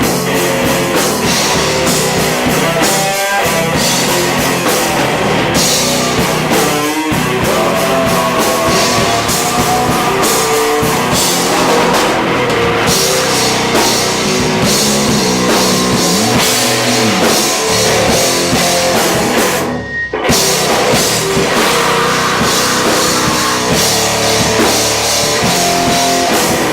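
Live rock band playing loud with drum kit and electric guitars. The band breaks off briefly about twenty seconds in, then comes straight back in.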